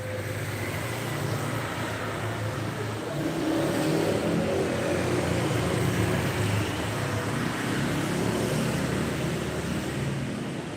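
A motor vehicle's engine and road noise, rising to its loudest around the middle and easing off toward the end, like traffic passing close by.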